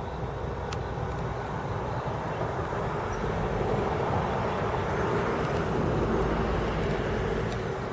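A vehicle passing, a steady rush that swells to its loudest about four to six seconds in and eases off near the end.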